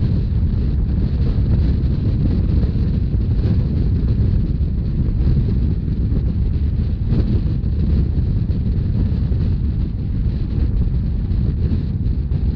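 Steady wind rush on the microphone over the low rumble of a narrow-gauge train running at speed.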